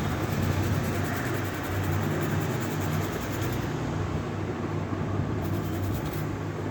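Steady low machine hum with an even hiss, typical of a running motor or fan, with no distinct events.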